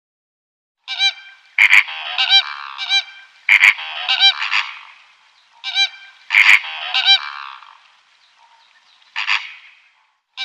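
An animal's loud, repeated pitched calls in three clusters of short notes, then a single short call near the end, with sharp clicks at the start of each cluster.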